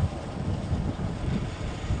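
Wind buffeting the microphone on a moving motorcycle, an uneven low rumble, with the bike's engine and road noise underneath.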